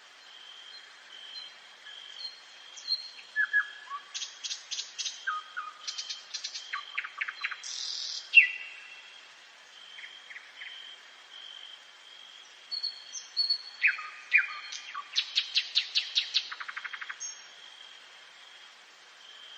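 Nightingale singing two song phrases of rapid repeated notes and trills, the first starting about three seconds in and the second about fourteen seconds in, over a faint steady high tone.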